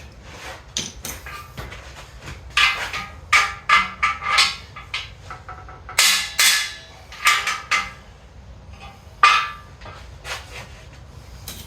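A steel hook pick clicking and scraping against a cam bearing and the engine block as it is poked into the bearing's oil hole, checking that the hole lines up with the oil passage. The strokes come irregularly, some as short clicks and some as brief scrapes.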